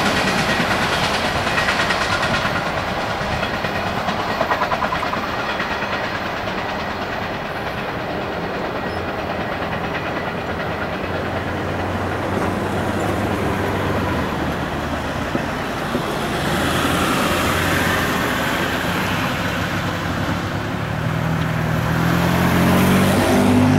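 Intermodal freight train of truck trailers on flatcars rolling by, steel wheels clacking over the rail joints. A low steady engine hum comes in about halfway and grows louder near the end.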